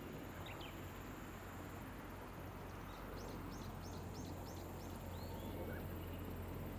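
Gentle rain falling steadily on rice terraces, with a small bird calling over it: two short notes about half a second in, then a quick run of about six high, falling notes a few seconds in.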